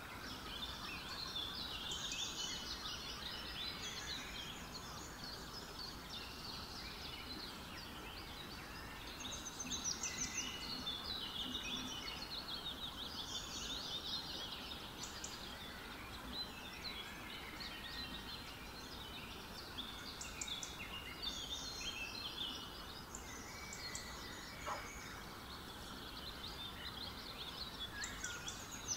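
Many small birds chirping and twittering continuously, a busy chorus of short high calls over a faint steady hiss.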